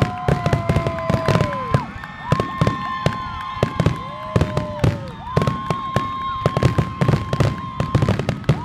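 Fireworks crackling and popping in rapid, dense strings. A steady high tone sounds three times over it, each lasting about two seconds.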